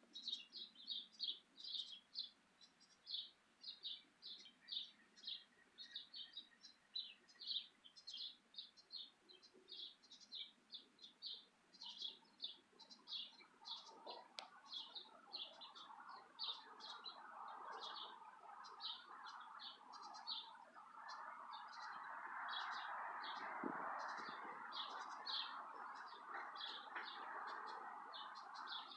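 A small bird chirping over and over, short high chirps about two or three a second. From about halfway through, wind rustling the leaves rises underneath and grows louder.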